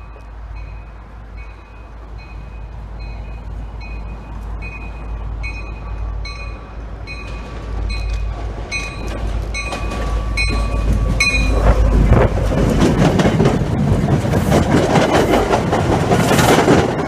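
MBTA commuter train approaching behind its diesel locomotive, with a bell ringing about two and a half times a second until it stops abruptly about eleven seconds in. The locomotive and bilevel coaches then pass close by, loud, with the wheels clattering over rail joints and squealing near the end.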